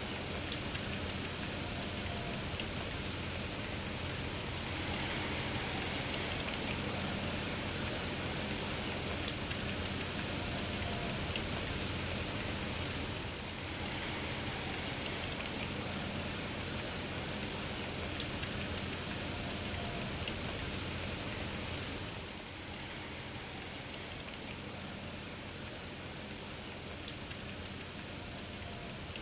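Steady rain falling, an even hiss of many drops. Four sharp single ticks stand out over it, roughly nine seconds apart, and the rain turns a little quieter about two-thirds of the way through.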